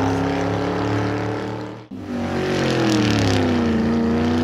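Car engine sound effect for toy hot rods driving: one engine runs steadily and cuts off just under two seconds in, then a second engine comes in, its pitch sinking for about a second before it levels out and runs steadily.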